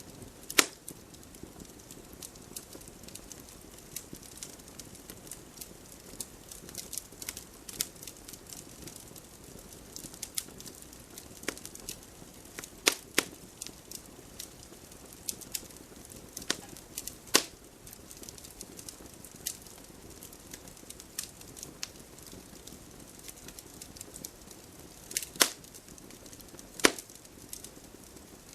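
Wood fire crackling: a soft steady hiss of burning logs with frequent small snaps and, every few seconds, a sharper loud pop.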